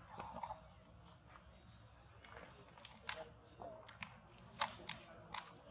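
Short, high-pitched rising chirps, repeated about every second and a half, with several sharp clicks or taps in the second half.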